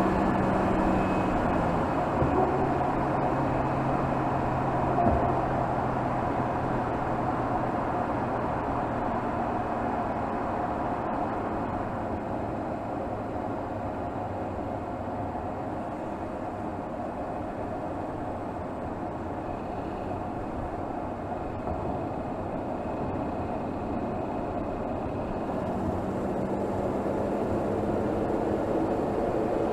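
Mercedes GLS 450's turbocharged 3.0-litre inline-six running steadily while driving, heard from under the bonnet. The engine note steps down in pitch about two seconds in and a higher hum comes back near the end.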